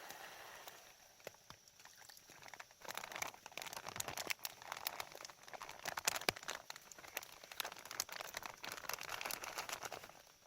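Irregular crinkling and rustling made of many small crackles, growing denser about three seconds in.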